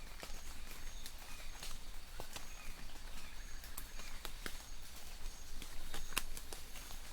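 Light rain in a forest: scattered drops ticking on leaves over a soft hiss, with birds chirping in the distance.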